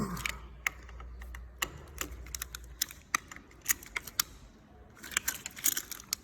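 Irregular metallic clicks and clinks of hand tools on metal as a handlebar-riser bolt is tightened, busier near the end.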